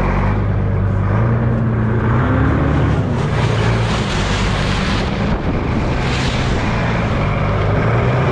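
A machine's engine running steadily, its pitch shifting up and down a few times, under heavy wind buffeting the microphone.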